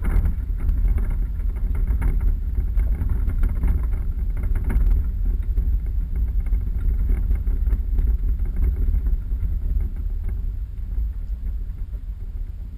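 Low, steady rumble of a 4x4 vehicle driving off-road, with the level fluctuating throughout and some lighter rattling in the first few seconds.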